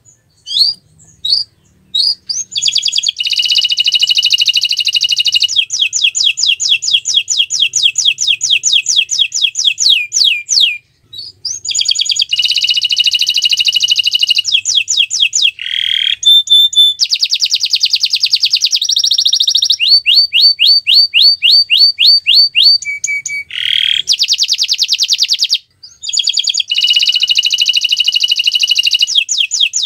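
Domestic canary singing a long song of rapid trills, each a fast run of the same high note repeated many times, switching from one trill to the next with brief pauses about 11 and 25 seconds in.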